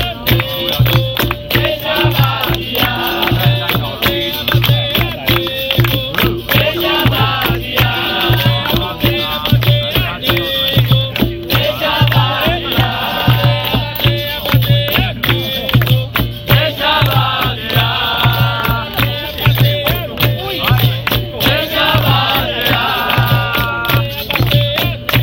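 Capoeira roda music: singing voices over a steady, evenly pulsing drum beat, with a berimbau's repeating notes and sharp percussion clicks.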